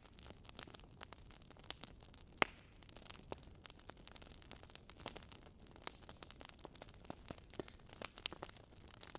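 Burning firewood crackling: irregular sharp pops and snaps over a faint steady hiss, with one louder pop about two and a half seconds in.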